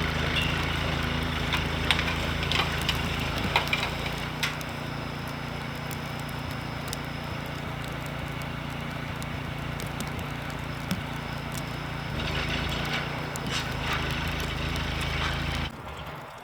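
A small engine running steadily, with scattered clicks and knocks over it; the sound cuts off suddenly near the end.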